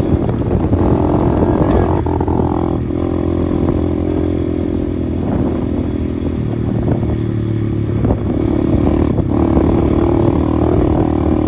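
125cc pit bike engine running under way, its pitch stepping down and back up as the throttle changes, with short dips at about three seconds and again near nine seconds.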